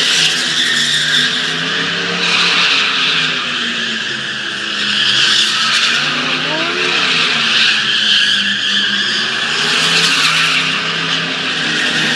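Truck doing a burnout: tires spinning and screeching on the pavement over the engine running hard, the screech swelling and easing.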